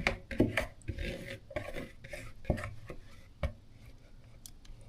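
Handling noise: scattered knocks and clicks with rubbing and scraping as things are moved about close to the microphone, growing sparser and quieter toward the end.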